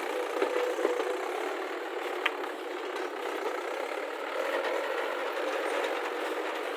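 Diesel engine of heavy earth-moving machinery running steadily, with metallic rattling and a few sharp clanks in the first two and a half seconds.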